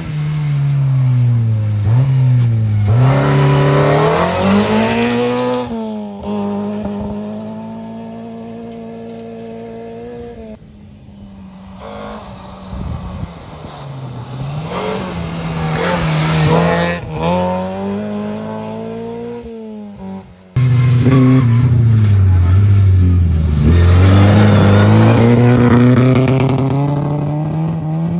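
Rally cars passing at full throttle, engines revving up and dropping back with each gear change. The sound changes abruptly between passes, quieter for a few seconds in the middle and suddenly loud again about two-thirds of the way through.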